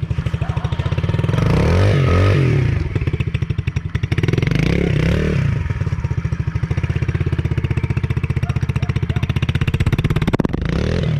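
Dirt bike engine running with a fast, even pulse, revved up and back down twice, about two and five seconds in. There is a single knock near the end.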